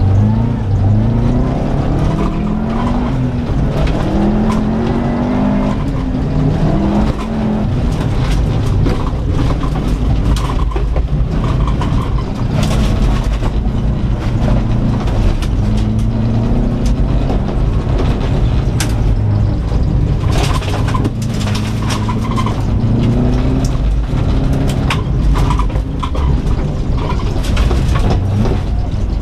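2004 Subaru Impreza WRX STI's turbocharged 2.5-litre flat-four engine heard from inside the stripped cabin, revving hard and dropping back again and again through gear changes. Gravel and dirt clatter against the car's bare floor and underside.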